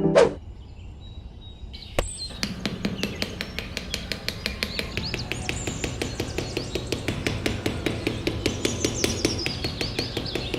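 A fast, even clicking, about seven clicks a second, starting about two seconds in after a single click, with birds chirping over it.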